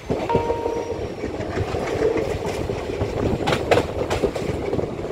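Passenger train running, heard from aboard a coach: the wheels rumble steadily on the rails, with a few sharp clacks over rail joints about three and a half seconds in. A short steady high tone sounds about half a second in.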